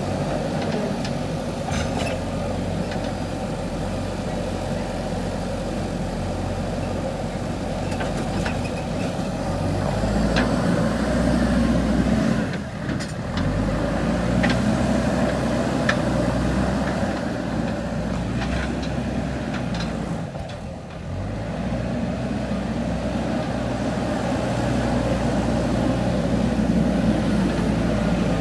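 Diesel engine of a JCB 3DX backhoe loader running steadily under working load, with two short drops in level, about twelve and twenty-one seconds in.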